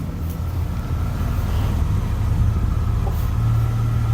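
Mercedes ML320's 3.2-litre V6 idling, heard from the rear of the vehicle: a steady low exhaust hum that grows louder toward the end.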